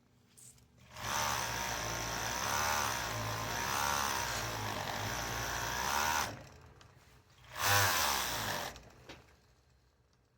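A small motor-driven machine runs for about five seconds, its pitch wavering as the speed changes, stops, then runs again briefly for about a second.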